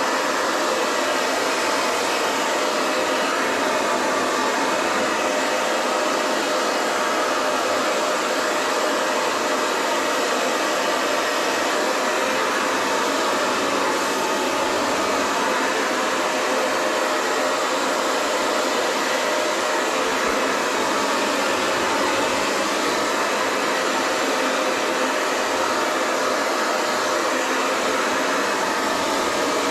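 Hair dryer blowing at a steady speed, an even rushing of air with a faint motor hum and slight slow swells as the airflow moves through long hair.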